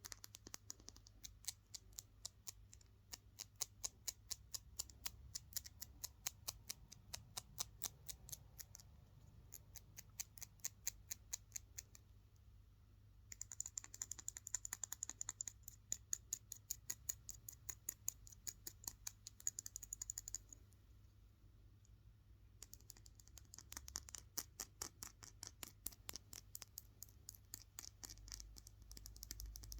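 Fast, aggressive tapping and scratching on a hard object, many quick taps a second in runs several seconds long, with a scratchier hiss in the middle run and two short pauses.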